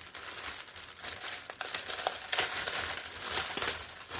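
Plastic packaging crinkling and rustling as a garment is unwrapped, getting louder about halfway through.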